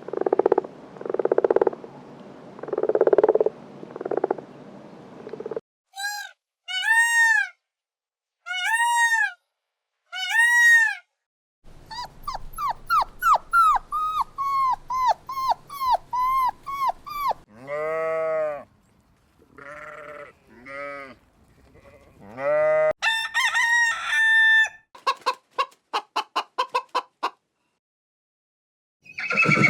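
A series of animal calls from several different animals, edited back to back with brief silent gaps between them. It opens with a run of pulsing calls, then short arching chirps repeated about once a second, then a fast series of calls, several louder cries, and a rapid train of clicks near the end.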